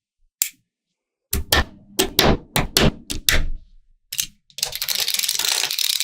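Small magnetic balls clicking as they snap together: one click, a quick run of about ten sharp clicks and another single click. From about two-thirds in, a dense, continuous rattle of many balls clattering against each other.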